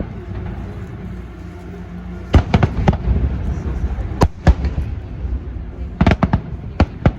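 Fireworks display going off: a series of sharp bangs and cracks in quick clusters, some close together, over a steady low rumble.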